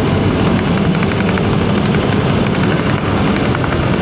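Motorcycle engine running steadily at road speed under wind rush, with a faint repeated tapping that the rider takes for his jacket strap hitting his helmet.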